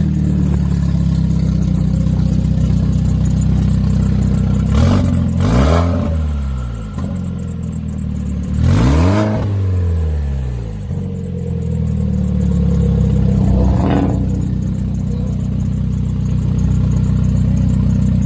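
Turbocharged car engine just started and idling, with a lumpy steady note, blipped on the throttle twice in quick succession about five seconds in and once more around nine seconds, each rev rising and falling back to idle.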